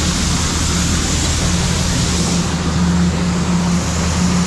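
John Deere 4400 combine running while it unloads soybeans: a steady engine drone with a constant hissing rush over it.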